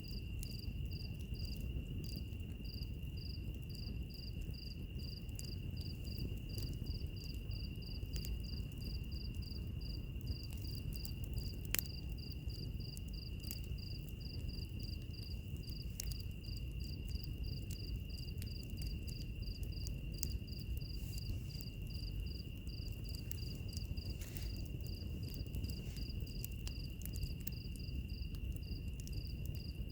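Insects calling without pause, one in a steady high trill and another in quick regular chirps about three a second, over a wood fire's low hiss with scattered crackles and pops; one sharper pop comes about twelve seconds in.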